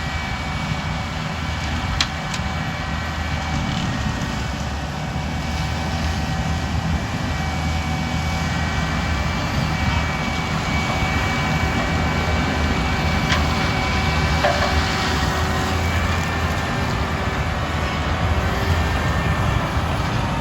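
Sugar beet harvesting machinery running steadily: a low engine drone with thin steady whines above it.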